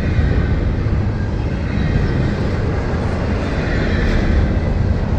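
Freight train cars rolling past, a steady rumble of wheels on the rails.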